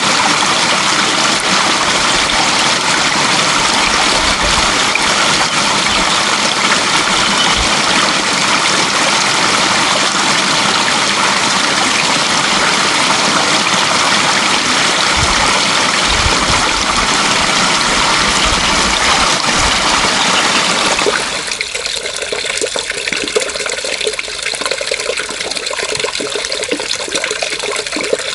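Rushing water flowing steadily and loudly, with a few low thuds underneath. About three quarters of the way in, it drops suddenly to a quieter, more splashy flow.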